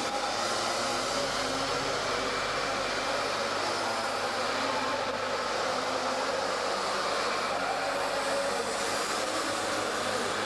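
Minimoto (mini bike) engines running at high revs, a steady drone.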